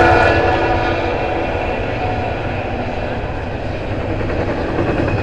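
Double-stack intermodal well cars rolling past: a steady rumble and wheel-on-rail noise. The last of the lead locomotive's horn dies away in the first half second.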